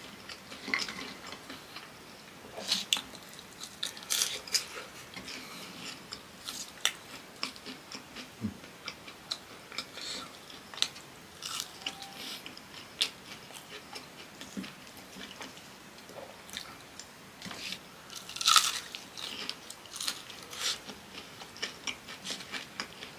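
Close-miked chewing of fried cassava, with irregular crisp crunches and bites; the loudest crunch comes about three-quarters of the way through.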